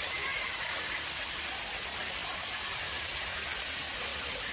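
Water flowing into a man-made pond, a steady, even rushing sound.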